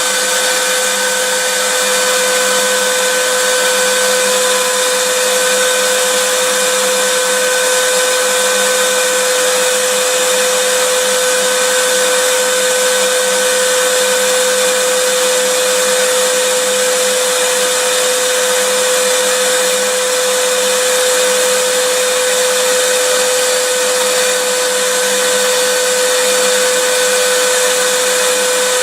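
Vacuum cleaner motor running steadily, a loud even rushing hiss with a constant hum-like whine through it, used as white noise for soothing babies.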